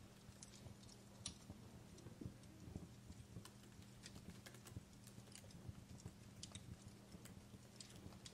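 Faint fireplace crackling: irregular small pops and snaps of burning wood over a low steady hum.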